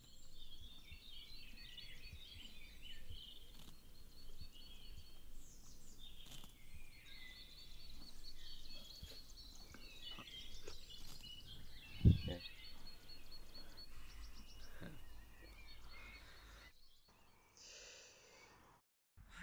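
Several birds chirping and singing, one with a fast repeated trill, over a low outdoor rumble, with a single loud dull thump about twelve seconds in. The birdsong stops near the end.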